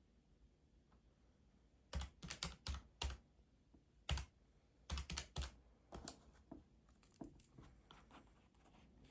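Keys being tapped in quick bursts of clicks, starting about two seconds in, with lighter, sparser taps after about six seconds.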